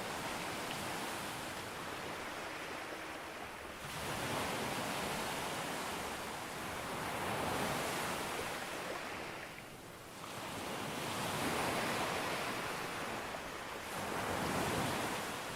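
Sea waves breaking on a beach: a steady wash of surf that swells with each new wave about every three to four seconds.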